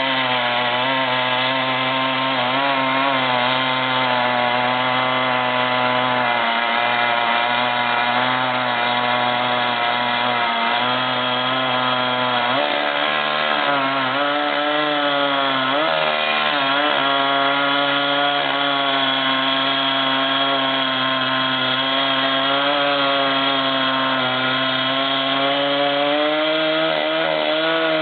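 Chainsaw running at high revs and cutting wood. Its pitch wavers throughout and sags noticeably in the middle as the chain loads in the cut.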